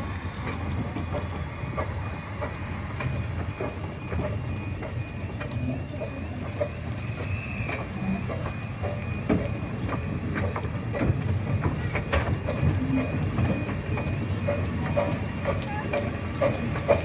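A 15-inch gauge miniature railway train running along the line: a steady rumble from the carriage, with irregular clicks and knocks from the wheels on the track.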